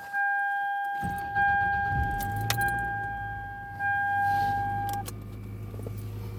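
1998 Toyota Camry cold-started: a steady dashboard warning tone sounds, the starter cranks about a second in, and the engine catches and settles into a steady idle. The warning tone cuts off about five seconds in.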